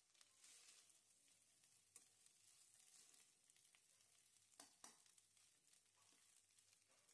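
Faint sizzling of cooked rice frying in oil and ghee in a kadai as it is stirred with a spatula. A few light clicks of the spatula against the pan come through, two of them close together about two-thirds of the way through.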